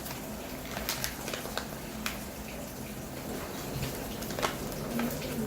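Scattered light clicks and taps of small plastic toy pieces and wrappers being handled, at irregular spacing, over a steady low hum.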